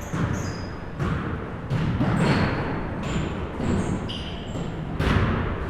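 Basketball bouncing irregularly on a gym floor, with short high sneaker squeaks between the bounces, in an echoing gym.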